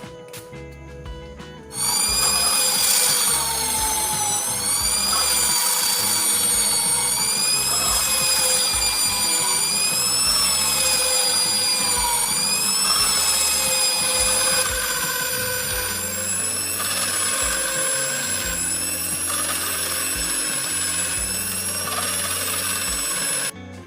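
A small electric power tool runs with a high whine whose pitch repeatedly dips and rises. It starts about two seconds in and cuts off just before the end, with guitar music playing before it.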